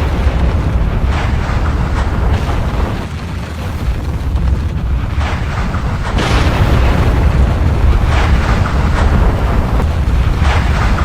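Volcanic eruption: a continuous deep rumble with repeated louder bursts of blasting every second or two.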